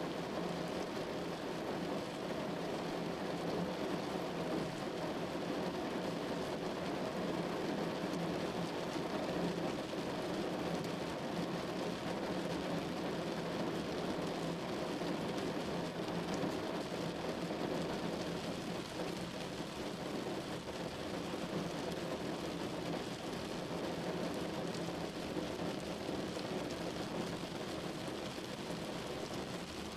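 Steady rain falling on a window pane, an even hiss of drops with no breaks.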